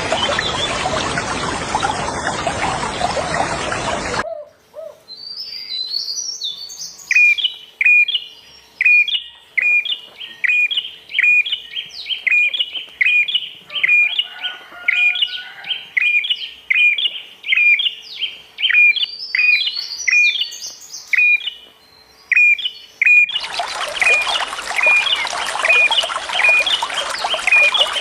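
Running water for about four seconds cuts off abruptly. A songbird then repeats a short, sharp call about twice a second, mixed with higher twittering chirps. Near the end the running water cuts back in suddenly, with the bird calls still heard over it.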